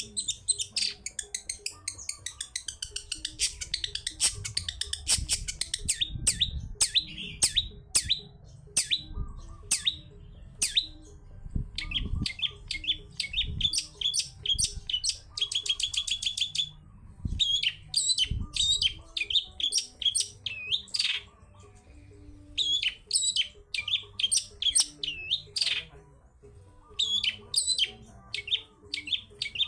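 Long-tailed shrike (cendet) singing a fast, varied song of sharp high chattering notes and trills, broken by short pauses.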